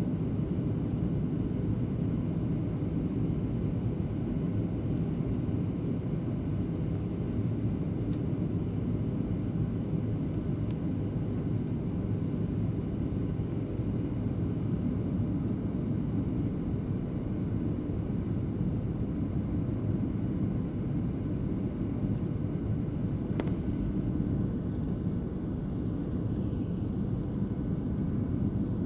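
Airliner cabin noise in flight: a steady low rumble of engines and airflow, with faint steady tones. Two faint clicks, one about 8 seconds in and one about 23 seconds in.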